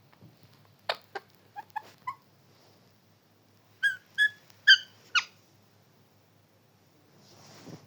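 Pet parrot calling: a quick run of short chirps about a second in, then four short, sharp squawks in a row a few seconds later.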